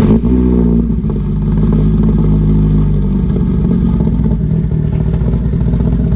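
Supercharged Saab 2.2-litre engine in a Vauxhall VX220 coming to life with a brief flare of revs, then idling steadily.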